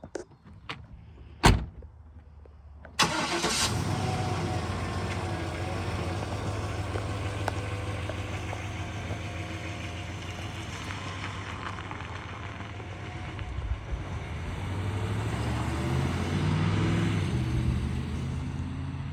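1999 Chevy pickup truck's engine started: a few sharp clicks, then it cranks and catches about three seconds in and settles into a steady idle. The revs rise a little and drop back near the end.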